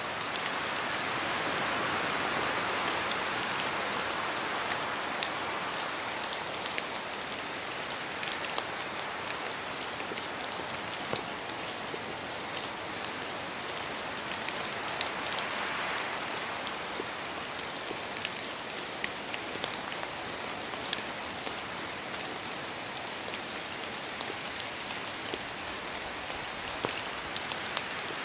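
Steady rain falling, with many small close drop ticks and a gentle swell of wind-like hiss twice.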